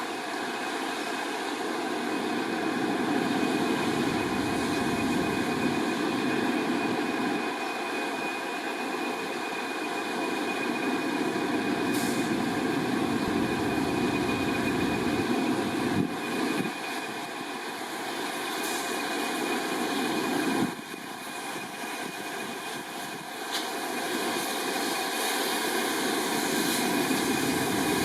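English Electric Class 20 diesel locomotive running, a steady engine note with a high whistle held over it.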